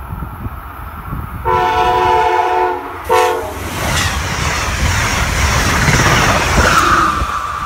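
Amtrak train horn sounding one long blast of about a second and a half, then a short one. The train then passes close at speed, its wheels loud on the rails, and a steady high whine comes in near the end.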